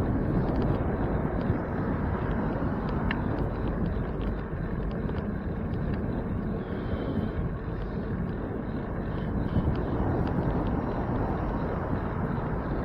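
Steady rush of wind on the microphone and road noise from a bicycle being ridden, with faint scattered ticks.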